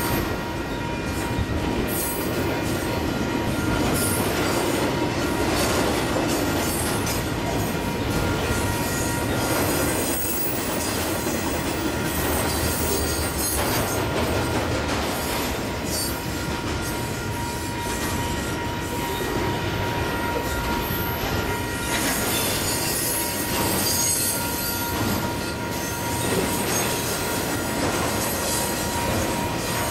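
Double-stack intermodal freight cars rolling past: steel wheels running on the rails with a steady rumble and clatter, and wheel squeal that grows brighter about two-thirds of the way through. A steady high ringing tone runs under it.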